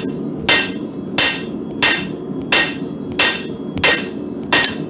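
Hand hammer striking hot mild steel on an anvil, seven blows at an even pace of about one every 0.7 seconds, each with a short metallic ring.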